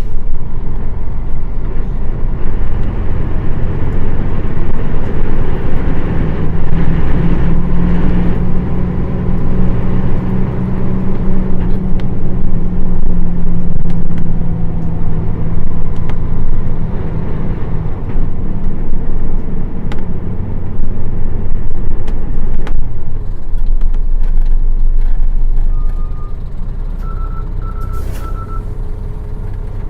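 Nissan Diesel PF6 diesel engine of a city bus heard from inside, pulling steadily under way, then easing off about 26 seconds in as the bus slows. A few short high beeps sound near the end.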